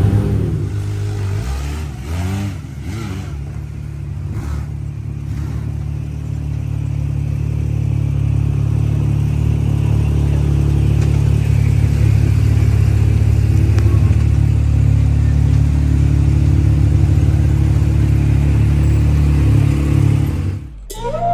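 Side-by-side UTV engine, a Yamaha YXZ, revving up and down through gear changes for the first few seconds, then running steadily under load. It cuts off abruptly shortly before the end.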